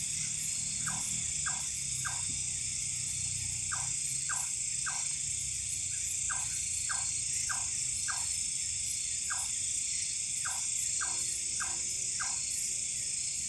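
Night-time forest chorus: a steady high insect buzz, with an animal repeatedly giving short falling call notes in groups of about three, a group every second or two.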